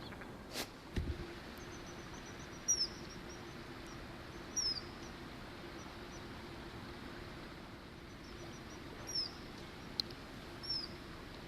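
Four short, high, falling whistled calls of a common kingfisher, spaced about two seconds apart, over a steady low hum and hiss.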